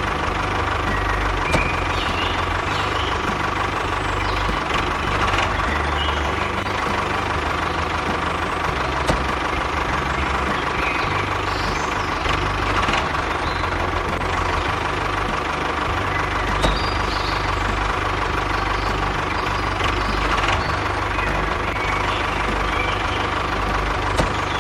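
An engine running steadily at idle, a continuous low pulsing throb.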